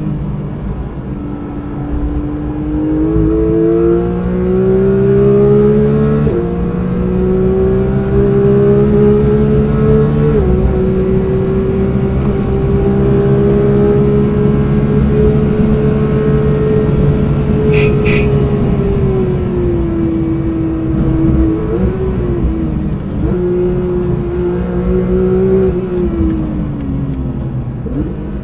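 Porsche 992 GT3's naturally aspirated 4.0-litre flat-six at full throttle, heard from inside the cabin. It climbs in pitch through the gears, with sharp drops at the upshifts about 6 and 10 seconds in, then holds a high steady note at top speed. It falls away under braking around 20 seconds in, with quick blips of revs on the downshifts, pulls up again, and drops off near the end.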